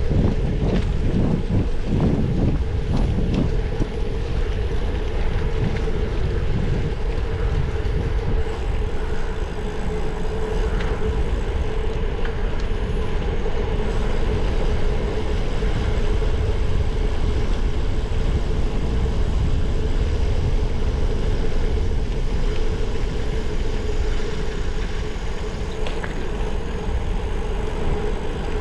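Wind on the microphone of a camera riding along on a moving bicycle, a steady low rush with a steady hum running under it.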